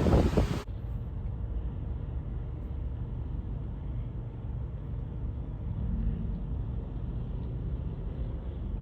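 Strong wind gusting against the microphone, cut off suddenly under a second in, then a steady low rumble.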